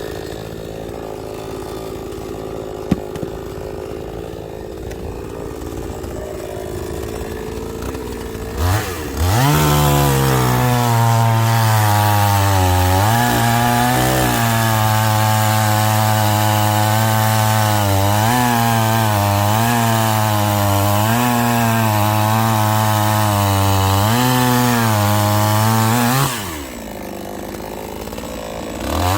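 Chainsaw idling, then revving up about nine seconds in and running at full throttle through a cut in firewood, its pitch dipping several times as the chain bogs under load. Near the end it drops back to idle and revs up again.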